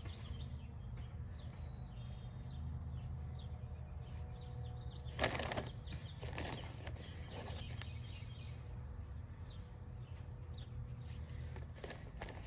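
Outdoor garden ambience: a steady low rumble with faint bird chirps, and a brief rustling scrape about five seconds in, followed by a couple of softer ones.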